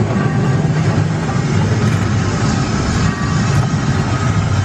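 Casey Jr. Circus Train cars rolling along their narrow track, a steady low rumble heard from a seat on board, with a faint high ringing tone above it.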